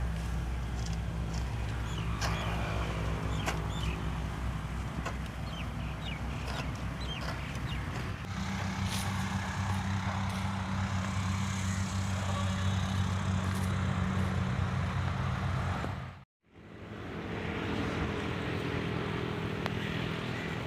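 Small farm-machine engine, a mini tractor or tiller with a rotavator, running steadily, with scattered sharp ticks over it in the first half. Its pitch shifts about eight seconds in, and the sound drops out for a moment near the end before the engine is heard again.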